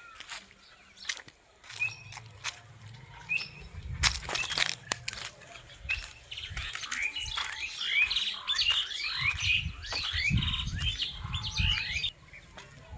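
Birds chirping: scattered short falling chirps that build into a dense, busy run of them through the second half. A few sharp crackles sound about four seconds in.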